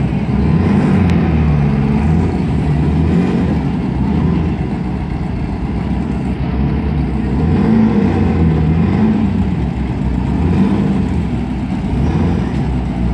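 Turbocharged VW Bug drag car engines running loudly at idle, the pitch rising and falling several times as the throttle is blipped before the launch.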